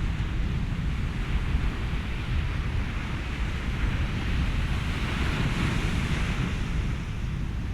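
Ocean waves breaking with a steady low wind rumble underneath. One wave swells into a rising hiss about halfway through, then recedes near the end.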